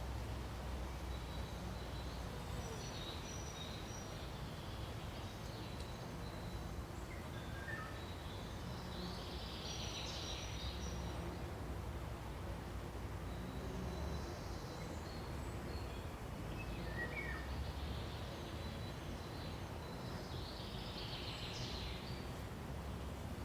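Forest ambience: a steady background hiss with sparse, faint bird calls, a few short chirps about a third of the way in and again past the middle, and thin high notes.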